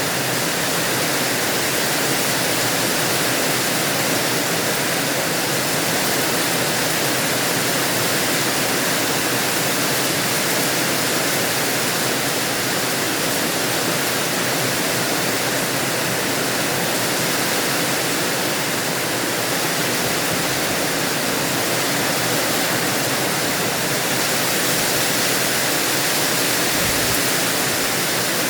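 Rain falling steadily, a dense even hiss that holds at the same level throughout.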